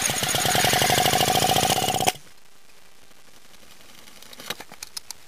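Villiers Mk8C two-stroke engine spun over by an electric drill, with a rapid run of pulses over the drill's whine, stopping suddenly about two seconds in as the engine backfires. The backfiring comes from wrong ignition timing and too much fuel in the cylinder. A few faint clicks follow near the end.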